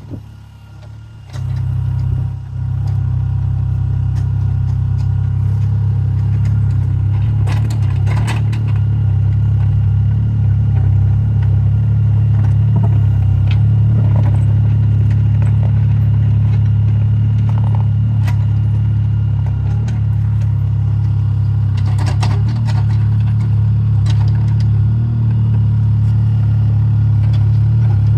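Mini excavator's diesel engine running steadily at a loud, even level, coming in strongly about a second in, with occasional metallic clanks from the machine at work.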